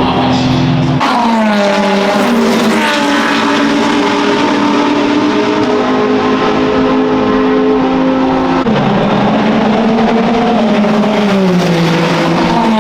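Racing car engine, loud and steady, its pitch dropping in steps as it downshifts under braking, then rising and falling again near the end.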